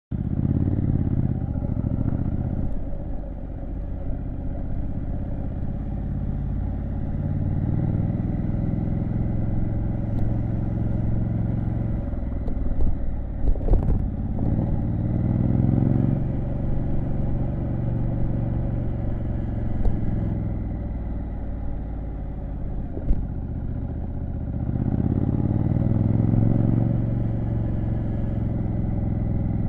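Triumph Street Scrambler 900's 900 cc parallel-twin engine running while riding, its pitch climbing and dropping back several times as it pulls and eases off. A few sharp knocks come a little before the middle.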